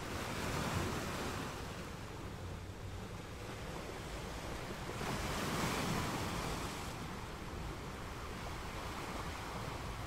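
Steady rushing of wind and river water on the microphone, swelling about a second in and again around five to seven seconds.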